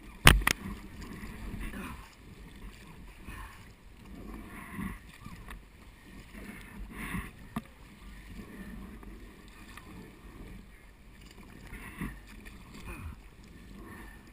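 Kayak paddling: the paddle blades dip and splash in the water in uneven strokes every second or two over a low rumble, with one sharp knock on the kayak or gear just after the start.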